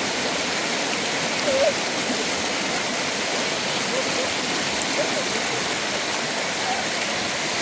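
Steady rushing of flowing water, with a few faint, brief voice-like sounds.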